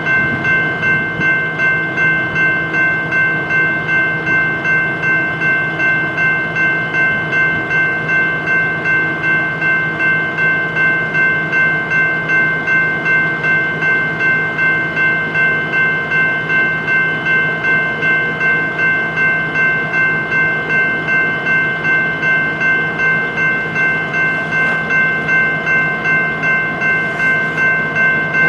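Diesel locomotives idling while being fuelled: a steady engine beat pulsing about two to three times a second under a constant high whine.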